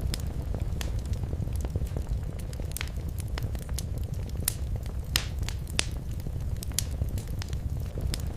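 Wood fire crackling in a fireplace: irregular sharp pops and snaps, a few louder ones midway, over a steady low rumble of the burning fire.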